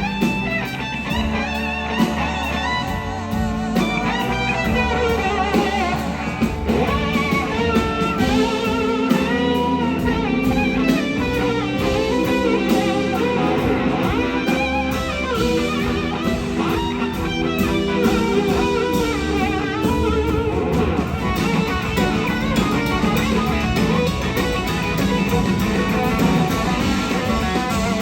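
Live blues-rock electric slide guitar solo, the lead line gliding and wavering between notes, over a full band with bass and drums.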